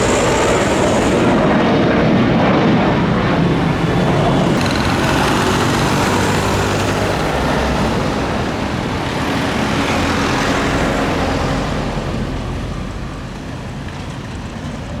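Airliner taking off: the loud, steady rush of its engines at take-off power, easing off near the end as the plane climbs away.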